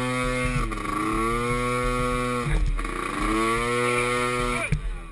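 Small youth ATV engine running at high revs. The throttle is chopped and reopened three times, each time with a brief drop in pitch and a climb back to a steady tone.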